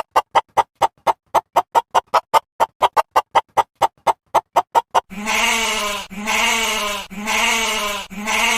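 A rapid string of short, squeaky pitched pulses, about four a second, then from about five seconds in repeated wavering bleats, roughly one a second.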